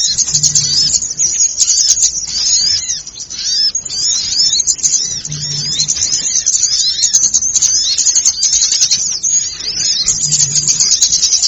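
Lure recording of many small birds calling at once: a dense, high-pitched, noisy chorus of rapid chirps and twitters. A short low hum repeats about every five seconds.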